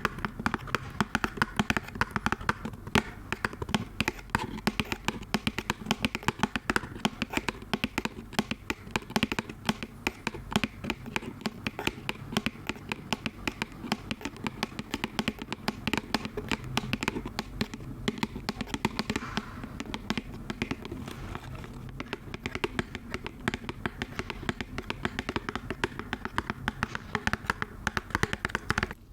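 Fast, dense tapping close to the microphone, many taps a second without pause, used as an ASMR trigger; it stops suddenly at the end.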